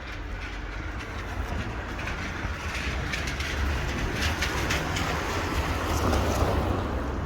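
Rainy outdoor street ambience: a steady low rumble under a hiss that swells in the second half and then eases, with scattered light ticks.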